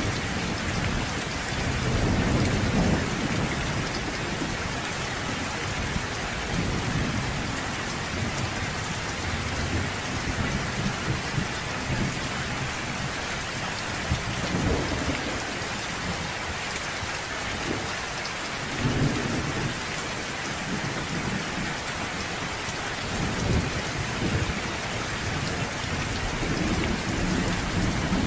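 Steady heavy rain hissing on surfaces, with low rolls of distant thunder swelling and fading several times, strongest a couple of seconds in and again near the end.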